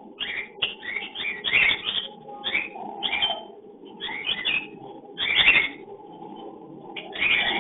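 Cockatiels chirping in short, scratchy clusters of calls, several bursts a second apart, as they call during courtship and mating. A steady low hum runs beneath.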